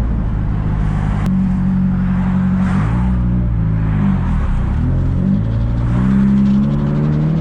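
Turbocharged Nissan S14 engine heard while driving: its note dips in pitch as the car slows for a U-turn, then climbs steadily as it accelerates away. A single sharp click sounds about a second in.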